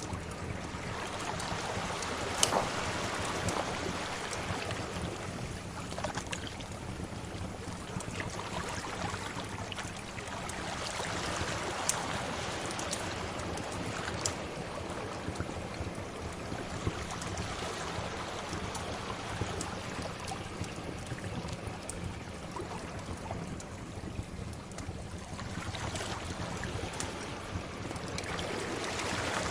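Sea waves washing in and ebbing in slow swells, with a wood fire crackling over them in scattered sharp pops.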